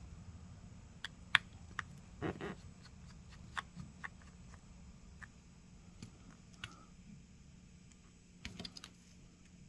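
Faint, scattered clicks and small taps of precision tools on a smartphone's internal parts while a tiny screw is taken out of the charging-port bracket, a dozen or so irregular ticks with a short rustle a little over two seconds in.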